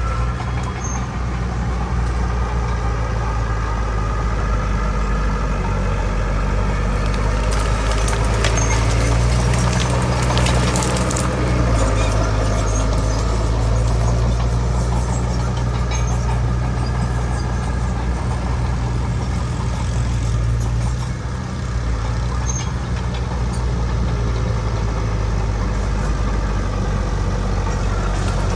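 Heavy earthmoving diesel engine, from a bulldozer or dump truck, running steadily under load. Its note shifts slightly near the middle, and a few knocks and clanks come about a third of the way in.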